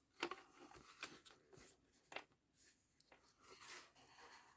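Faint rustling of paper and card being handled, with a few light ticks and taps.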